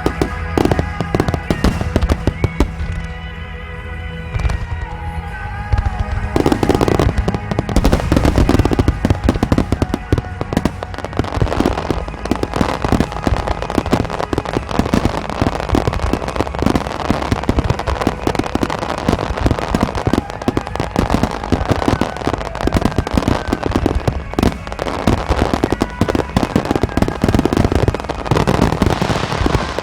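Aerial fireworks finale: for the first six seconds scattered bangs and cracks sound over show music from loudspeakers. From about six and a half seconds in, a dense barrage of shells bursts in rapid succession, with continuous crackling.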